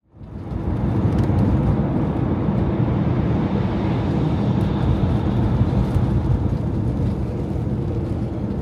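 Steady road and engine noise of a camper van driving, heard from inside the cab, fading in at the start.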